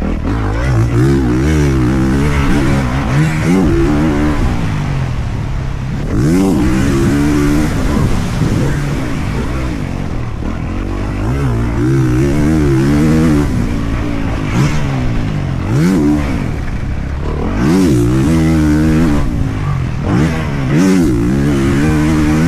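Dirt bike engine being ridden hard, its pitch rising and falling again and again every second or two as the throttle is opened and shut.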